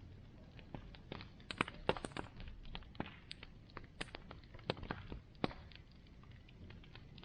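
Bonfire crackling: burning wood pops and snaps at irregular intervals, with a cluster of sharper snaps about two seconds in, over a low steady background.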